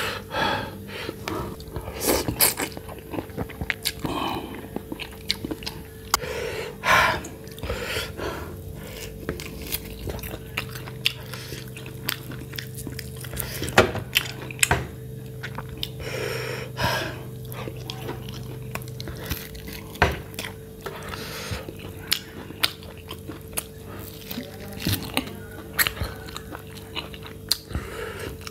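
Close-miked eating: chewing and biting on roasted goat ribs and spicy instant ramen noodles, with irregular wet smacks and crunchy clicks.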